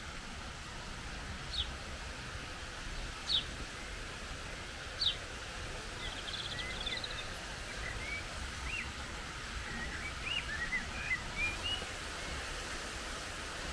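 Birds calling: three short, sharp falling whistles about a second and a half apart, then a quick twittering trill and a run of short chirps, over a steady background hiss.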